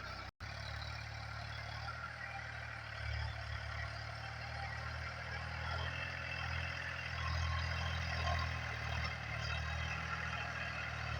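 Tractor engine running steadily under load while tilling soil, a low hum with a broad rumble over it. The sound cuts out completely for an instant about a third of a second in.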